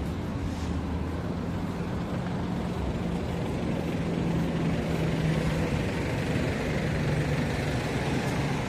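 A motor vehicle's engine running steadily as a low drone over street traffic noise.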